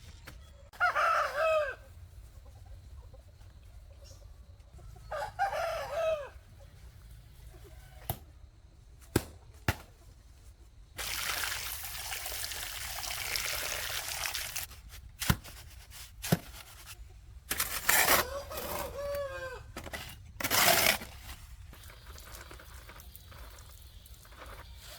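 Chickens calling, with short rooster-like crows about a second in, again around five seconds, and later near eighteen seconds. In the middle a rushing, hissing noise runs for about three seconds, and a few sharp clicks fall between the calls.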